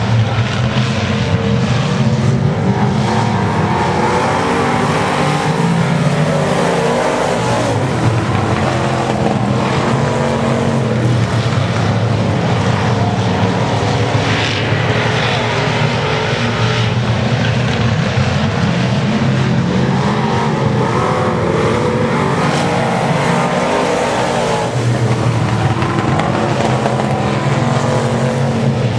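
A pack of dirt-track race cars running at speed, their engines a loud continuous din that eases briefly twice and builds again.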